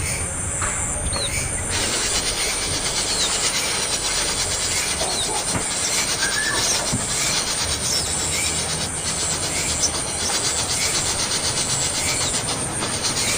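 Young bird begging for food: short chirps repeating about once a second over a steady, dense rasping hiss.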